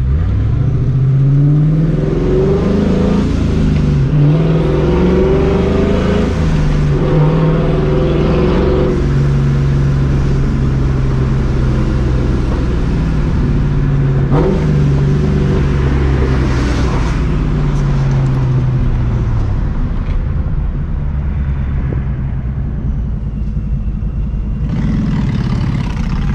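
Ford Mustang GT's 4.6-litre V8, fitted with a Vortech supercharger and a catless Borla ATAK exhaust, pulling up through several gear changes. It then cruises at steady revs and eases off near the end, with one sharp pop about halfway through.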